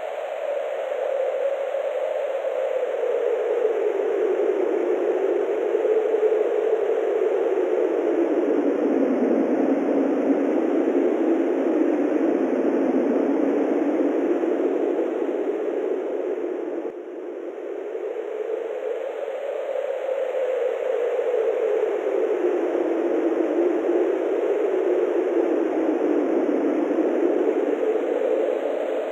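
Wind blowing steadily with a whooshing sound whose pitch slowly sinks and rises again, easing briefly about two-thirds of the way through.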